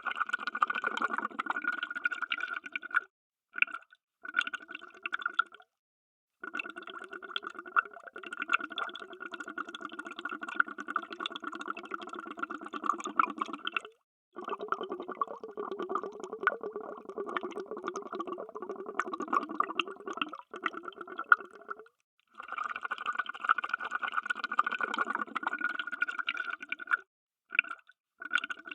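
Underwater bubbles streaming and gurgling in stretches of several seconds, each cut off abruptly by a brief silence, several times over.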